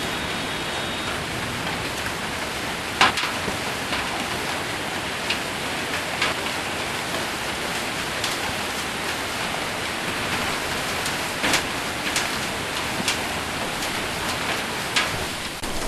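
Steady heavy rain mixed with hail falling on a roof. Scattered sharp individual impacts, about a dozen in all, stand out from the hiss; the loudest comes about three seconds in.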